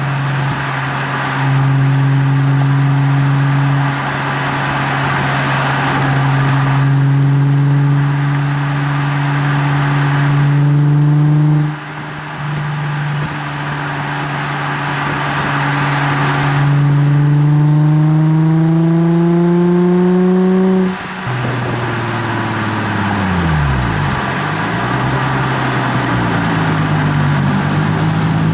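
Nissan 350Z's 3.5-litre V6 through a Greddy Ti-C single exhaust, accelerating under load with the engine note climbing slowly. It breaks off for a shift about 12 seconds in and again about 21 seconds in, and near the end the note sweeps down and back up.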